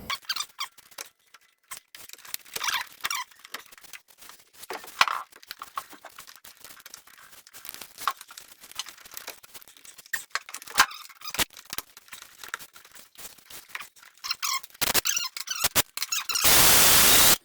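Hand tools and engine parts clicking, knocking and scraping against each other as the 6.0 Powerstroke's top end is reassembled, with one loud burst of even, hiss-like noise lasting about a second near the end.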